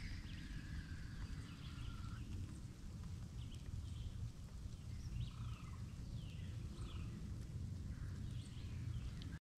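Wild birds calling outdoors: short chirping notes come and go over a steady low rumble, with a few held whistled notes in the first couple of seconds. The sound cuts out briefly just before the end.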